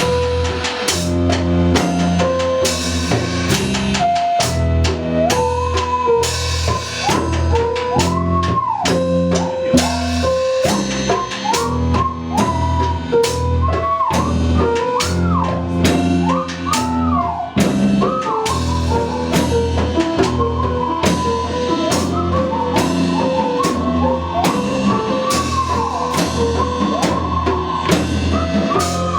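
A live band playing an instrumental blues passage, with a steady drum-kit beat and bass under a high lead line that slides up and down in pitch.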